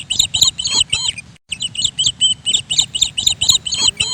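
Small bird chirping rapidly, about five or six sharp high chirps a second. The chirping breaks off suddenly a little over a second in and then resumes.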